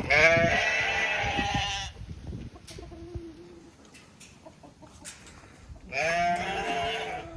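A coop bird gives two long, wavering calls, about six seconds apart, each lasting nearly two seconds.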